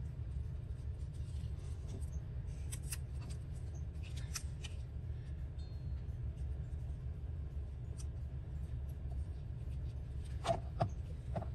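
Paper scraps being handled: a few soft rustles and light taps, then two sharper clicks near the end, over a steady low hum.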